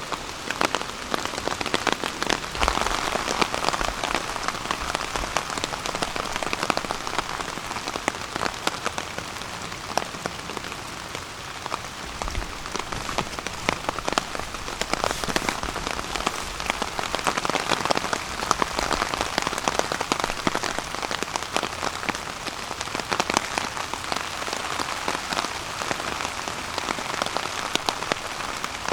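Steady rain falling on a tarp overhead, a dense even hiss of many separate drop hits.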